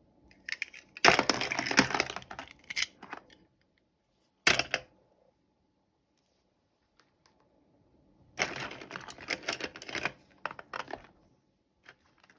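Toy packaging being handled and opened: two spells of crinkling and crackling, with a single sharp click between them.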